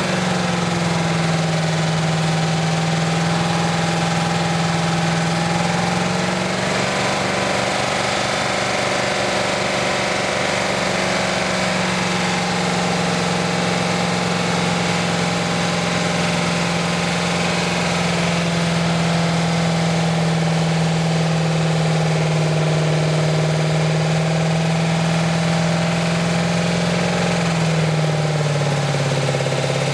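Truck engine running steadily at idle, its pitch drifting slightly up and down a few times. It is being run with silicone put into it to test an oil additive.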